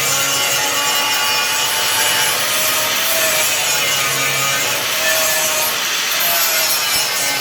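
Angle grinder grinding down welds on a steel car floor panel, running steadily with a rasping sound whose pitch drifts a little as the disc is pressed in and eased off.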